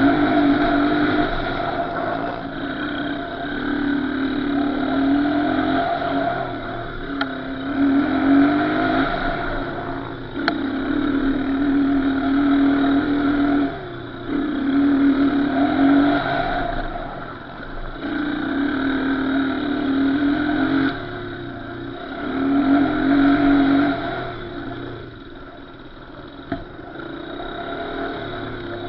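Small off-road engine being ridden: it revs up, holds, and drops off again every few seconds as the throttle is opened and closed.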